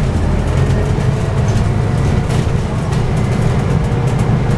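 Scania N280UD bus heard from inside while under way: its Scania OC09 9.0-litre biogas engine and drivetrain give a steady low rumble, with a faint whine that drifts slowly in pitch.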